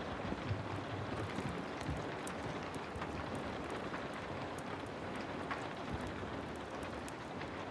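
Heavy rain falling in a steady, even hiss, mixed with the crackling of a wood fire: many small sharp pops and ticks scattered throughout.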